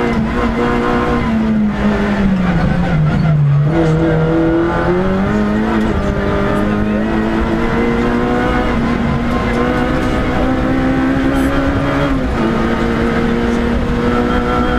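Rally car engine heard from inside the cockpit while driving hard on a stage. The revs drop about three seconds in and come back up, then climb slowly, with another short drop about twelve seconds in.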